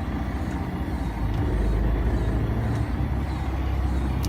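Fishing boat's engine running steadily, a low rumble that grows louder about a second and a half in.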